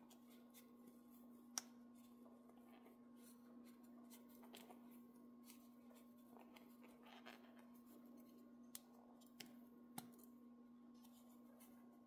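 Near silence with a steady low hum and a few faint, sharp clicks, the loudest about one and a half seconds in and others near the end.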